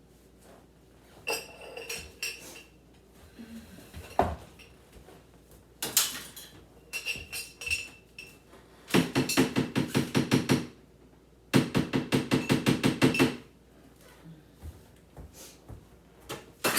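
Glass pickle jars and their lids being handled: scattered clinks and knocks, some ringing briefly, with two runs of rapid rattling taps, about seven a second, each lasting a couple of seconds near the middle.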